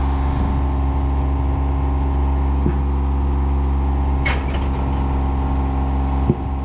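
Aerial lift's engine running steadily, with a brief metallic click about four seconds in and a low knock near the end.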